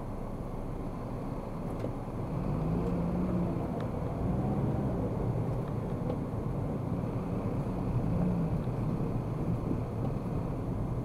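Car driving in city traffic: steady engine and tyre noise, with the engine note rising about two seconds in.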